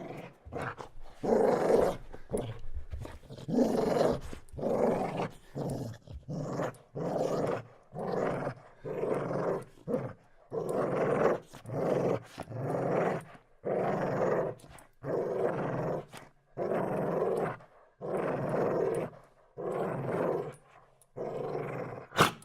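A dog growling in a steady, repeated rhythm of about one growl a second. A short sharp sound cuts in just before the end.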